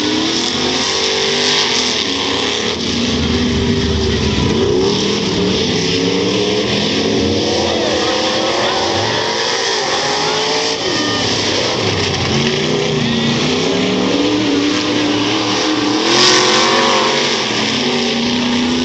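Several dirt-track stock car engines running hard around the oval. Their pitches rise and fall and overlap as the cars accelerate, lift and pass, with a louder swell about sixteen seconds in.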